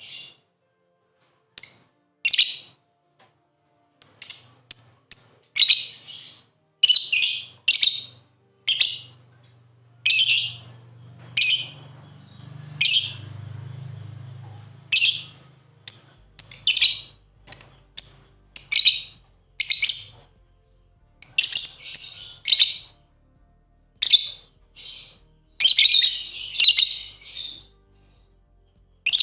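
Lovebirds chirping: short, shrill calls in quick irregular runs, with brief pauses between them.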